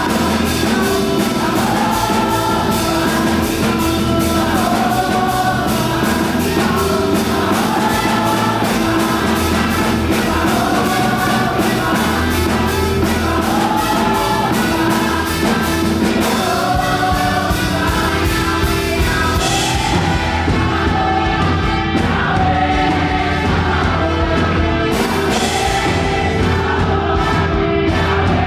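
Live gospel worship music: a group of voices singing over a band with a fast, driving beat. About two-thirds of the way through, the bright upper part of the beat drops away while the singing carries on.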